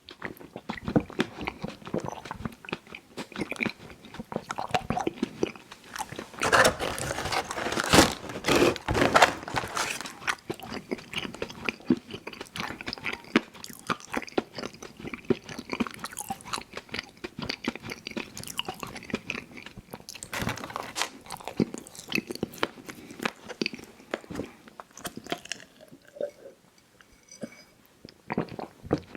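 Close-miked chewing of chewy fruit candies: wet mouth clicks and smacking in an irregular stream, with a louder stretch of biting and chewing about seven to ten seconds in.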